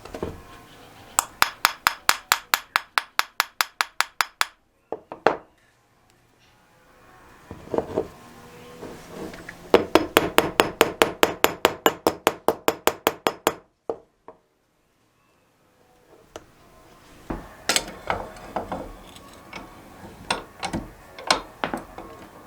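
Hand-tool work on a carburetor: two runs of rapid, evenly spaced sharp metallic clicks, about six a second, each run lasting a few seconds, with scattered knocks and clinks between and after.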